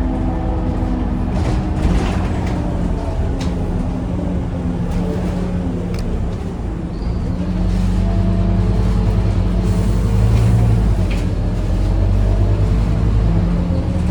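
Ex-RATP Scania OmniCity bus under way, heard from on board: the engine runs with its pitch rising and falling as the bus pulls away and changes speed, with a few clicks and rattles. It grows louder about seven seconds in.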